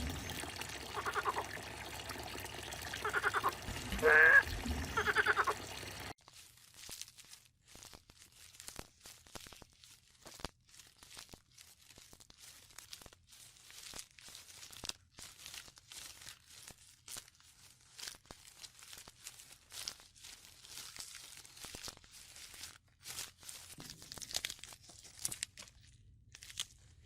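A few short animal calls that bend up and down in pitch over the first six seconds. The sound then changes abruptly to soft, irregular crunching and crinkling clicks.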